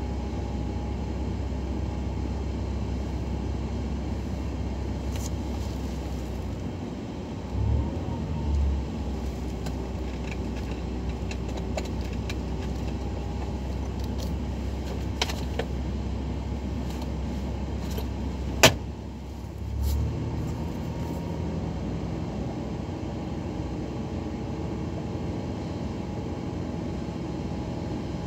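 Mitsubishi Pajero engine idling steadily, heard from inside the cabin, while it warms up to check that a newly replaced thermostat opens and cures its overheating. A few clicks and knocks come over the idle, the sharpest about two-thirds of the way in.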